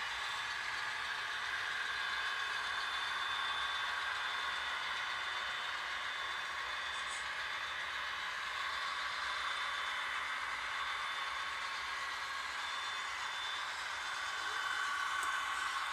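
A train running steadily: an even mechanical rush with faint steady whining tones over it, no horn or bell, and a slight swell near the end.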